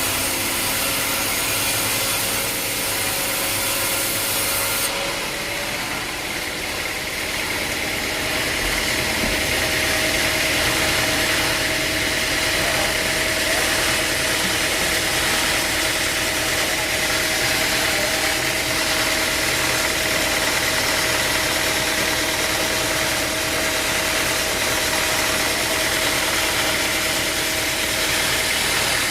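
Sawmill machinery running steadily. About five seconds in the sound changes, and it then settles into an even hum with a steady high whine.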